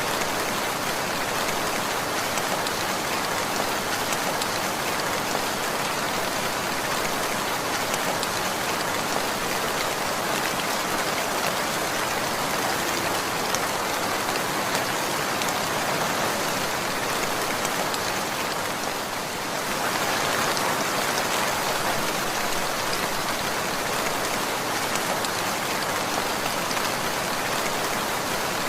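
Steady rain falling and pattering on surfaces, a dense even hiss with a brief slight dip about two-thirds of the way through.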